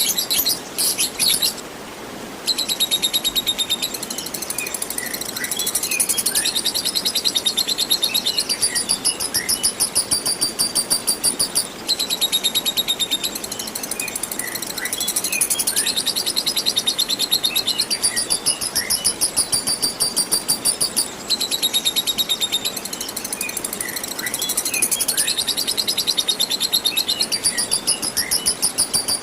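Lovebird singing 'ngekek panjang', a long unbroken run of very fast, high, shrill chattering notes that goes on for about nine seconds at a time with only brief breaks, mixed with short falling chirps. A steady hiss of running water lies underneath.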